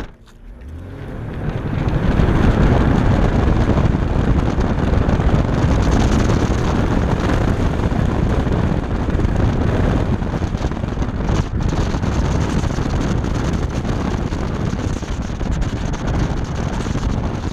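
BMW F10 535i's turbocharged straight-six revving up as the car pulls away from a standstill, then driven hard around an autocross course. From about two seconds in, heavy wind buffeting on the microphone largely covers the engine.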